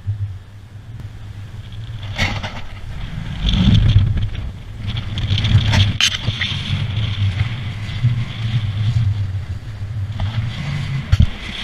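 Wind buffeting the microphone as a low, gusting rumble that swells and eases, with a few sharp knocks on the boat's deck or fittings along the way.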